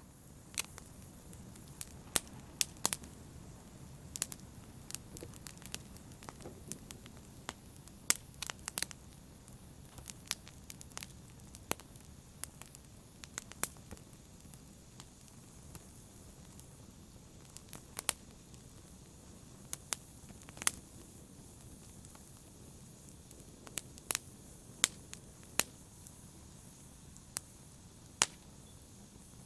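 Fire crackling in a fireplace: a steady low hiss with irregular sharp pops and snaps, several of them loud.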